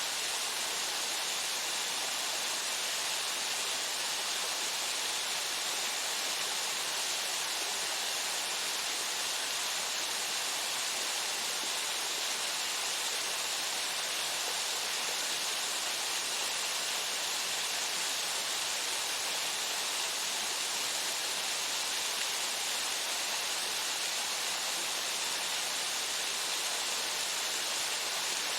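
Waterfall pouring steadily: an even rushing hiss of falling and splashing water, brightest in its upper range, that does not change.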